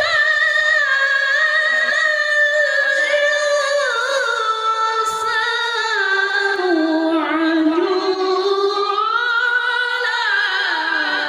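A male Qur'an reciter (qari) holding one long, unbroken melismatic phrase of tilawah in a high voice, with small ornamental turns. The line sinks lower around the middle and then climbs partway back up.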